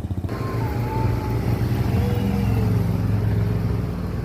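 Motorcycle engine picking up from a slow, pulsing run just after the start, then running at a steady speed.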